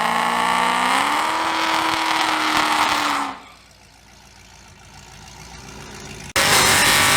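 Race car engine at full throttle, its pitch climbing about a second in and holding high, then falling away sharply about three seconds in as the throttle is lifted. Near the end another loud engine run cuts in abruptly.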